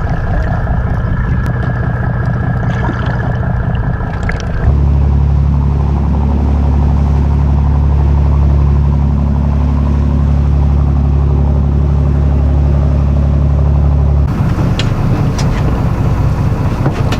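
Charter boat's engine running, brought up to a louder, steady higher throttle about five seconds in and eased back about ten seconds later, as the boat is repositioned over the wreck.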